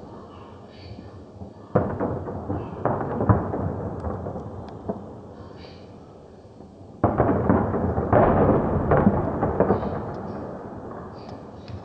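Fireworks going off: a sudden bang about two seconds in, followed by a run of crackling reports. A second, louder volley comes about seven seconds in, with dense crackling that slowly dies away.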